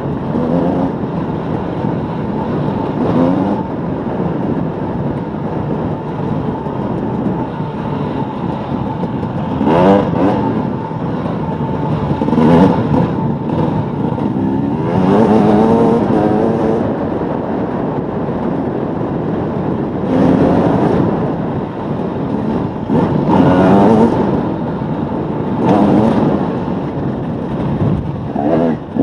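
KTM EXC 300 two-stroke enduro motorcycle engine running hard on a dirt track, heard up close from a helmet-mounted camera. The pitch rises again and again, about every two to four seconds, as the rider opens the throttle and shifts, between stretches of steadier running.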